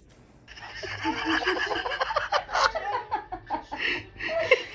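A person laughing in quick, repeated bursts, starting about half a second in.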